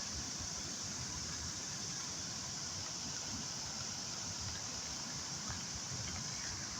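Steady hiss of running floodwater, even and unbroken.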